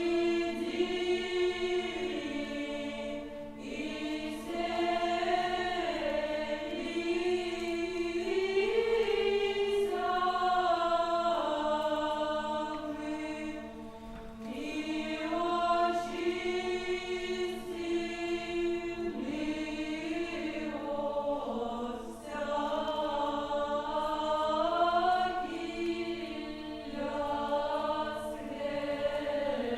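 Choir singing Old Russian chant in long phrases over a steady held drone note, pausing briefly between phrases about three seconds in, near the middle and about two-thirds through.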